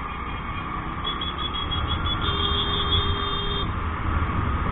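Steady road and wind rumble of a ride through city traffic, with a vehicle horn beeping in short toots from about a second in, then held for a longer blast until about three and a half seconds.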